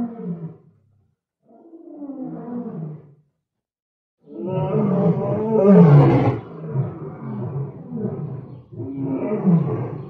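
Lion roaring: a short call that falls in pitch about two seconds in, then after a brief pause a longer run of loud roars from about four seconds on, each falling in pitch, loudest around six seconds.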